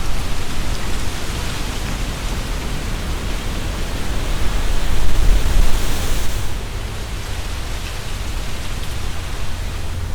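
Strong wind blowing through trees, leaves rustling, with a low rumble of the wind buffeting the binaural microphones. A gust builds and peaks about five to six seconds in, then eases.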